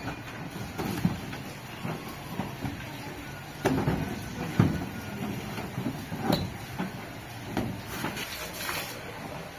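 A few separate knocks and thuds, the strongest about three and a half and four and a half seconds in, over a steady low background noise.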